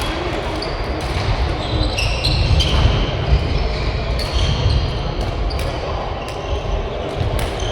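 Badminton rally: shoes squeaking on the court floor in many short, high chirps, with sharp racket hits on the shuttlecock over a steady low rumble.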